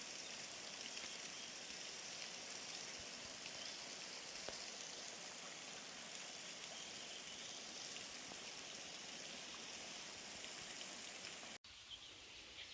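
Water falling and splashing from a thin waterfall running low late in the season, only a trickle: a steady, even patter like light rain. It cuts off abruptly about a second before the end, giving way to a quieter outdoor background.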